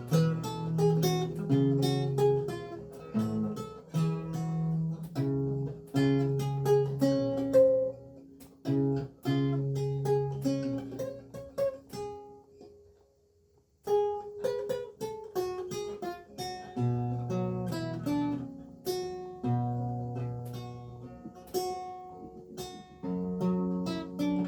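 Renaissance lute with gut strings played solo, plucked single notes and chords. The playing breaks off for about a second and a half just past the middle, then starts again.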